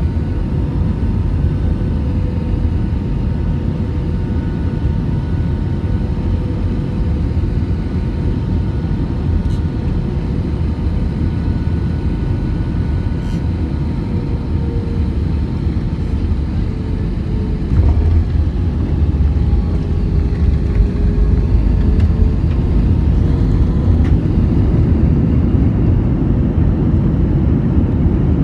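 Airbus A320 cabin noise on the landing approach: a steady jet-engine and airflow rumble with a few thin whining tones, one of which dips and slides. About two-thirds of the way through, a sudden jolt of low rumble comes in and the noise grows louder, as at touchdown and rollout on the runway.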